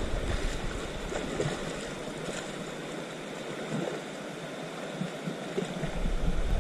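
Stream water flowing, a steady rushing noise.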